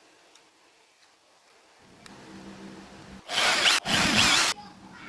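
A small power tool's electric motor starts humming about two seconds in, then twice bursts into a short, loud, harsh whirr as it bites into the work.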